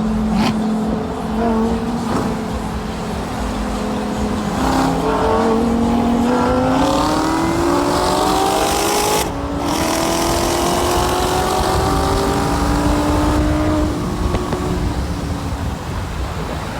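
Car engine accelerating hard, its pitch climbing steadily, then a brief break and drop about nine seconds in as it shifts up a gear before climbing again. It eases off near the end.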